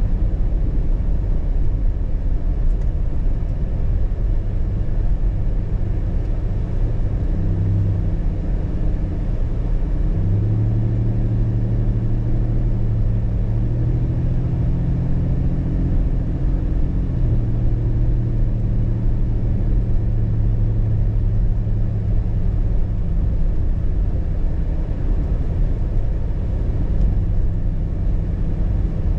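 Car being driven: a steady low rumble of engine and road noise. The engine's hum shifts up and down in steps between about seven and eighteen seconds in.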